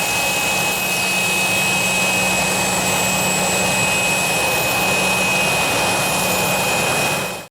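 Business jet's turbofan engines running steadily with a high whine over a loud rushing noise; the sound cuts off abruptly near the end.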